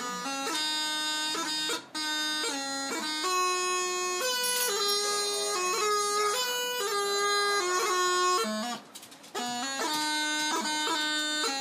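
Bagpipe tune: a melody stepping from note to note, with two brief breaks, about two seconds in and around nine seconds.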